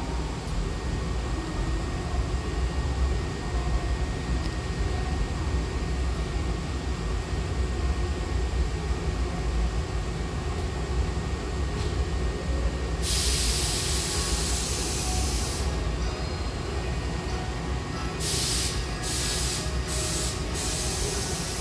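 Hankyu electric train standing at a platform with its doors open, its equipment giving a steady low hum. A hiss of compressed air sounds for about three seconds partway through, then a string of short air hisses near the end.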